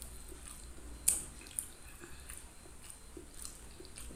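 Close-miked eating sounds: chewing and wet mouth noises with small clicks, while a green petai (stink bean) pod is split open by hand. Two sharp snaps stand out about a second in, half a second apart.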